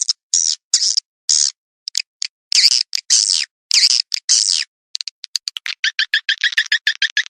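Swiftlet calls from a lure recording made to draw swiftlets into a nest house: a series of high twittering chirps, each under half a second, with clean silent gaps between them. From about five seconds in they turn into a fast run of short chirps.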